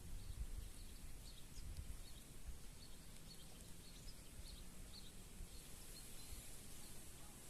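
Faint rural outdoor ambience: scattered short, distant bird chirps over a steady high hiss and an uneven low rumble.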